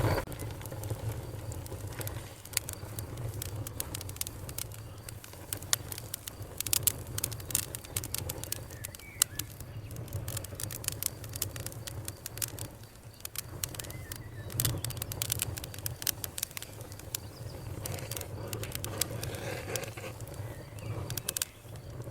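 Wood fire burning in a fireplace, crackling with frequent sharp pops at irregular intervals over a low steady rumble.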